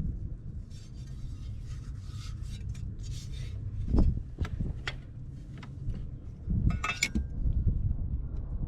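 Hand work on car parts: rubbing and scraping, a knock about four seconds in, and a few short metallic clinks about seven seconds in.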